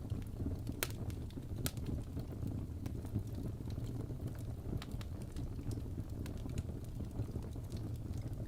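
Wood fire burning in a fireplace: a steady low rumble of the flames with frequent sharp crackles and pops, two louder snaps about one and two seconds in.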